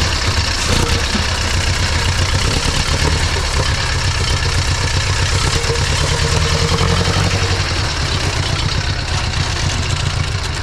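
Prewar car's engine idling loudly and steadily, with a deep, uneven beat.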